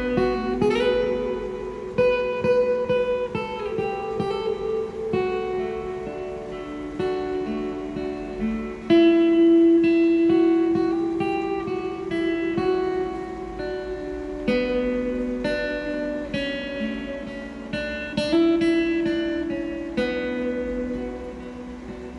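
Instrumental guitar break in a slow ballad: acoustic guitar playing a run of plucked melody notes over sustained chords, with no singing.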